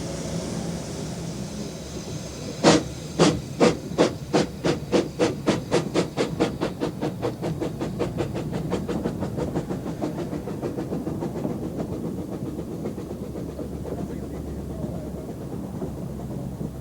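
Narrow-gauge steam locomotive hissing steam, then starting away: loud exhaust chuffs, about two a second at first, quicken and fade into a steady running sound as the train pulls out.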